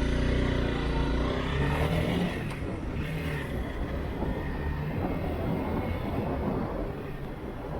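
Motorcycle engine running, its pitch sliding down over the first couple of seconds as it slows, then settling to a lower, steadier note under wind rush.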